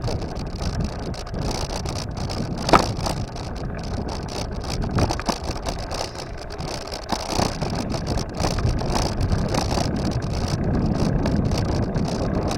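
Steady rumbling noise of a bicycle ride, with a sharp knock nearly three seconds in.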